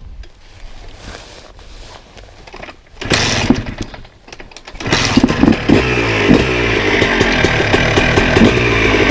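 Honda CR125 two-stroke single with an FMF expansion-chamber exhaust being started: it fires and runs for about a second, three seconds in, then dies. About five seconds in it catches and keeps running with the raspy two-stroke note, blipped up and down in revs.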